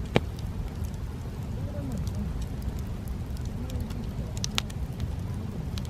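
Wood bonfire crackling: scattered sharp pops and snaps over a steady low rumble, with two louder pops, one right at the start and one about four and a half seconds in.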